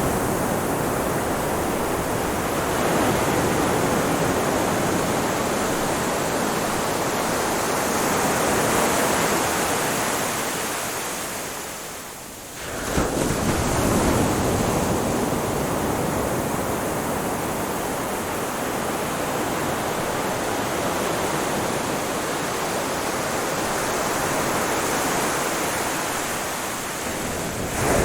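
Ocean surf: waves washing onto a shore as a continuous rushing noise that swells and eases every few seconds. About twelve seconds in it fades briefly, then comes back abruptly.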